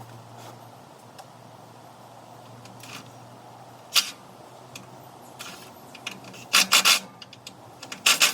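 Hand-tool work on metal parts: a sharp clack about four seconds in, then a quick run of three clatters near seven seconds and another clatter near the end, with scraping and rubbing between them over a low steady hum.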